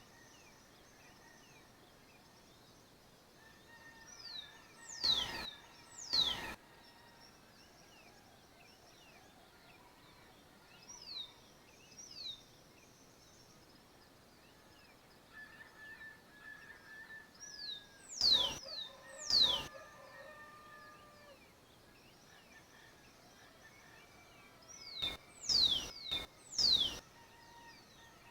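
Dawn birdsong: one bird gives loud, high whistles that slur sharply downward, in clusters of two or three every several seconds, over fainter chirping and thin calls of other birds.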